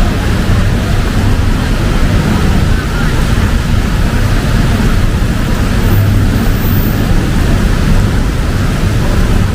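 Heavy rain pouring steadily, with a deep rumble of city traffic and wind underneath.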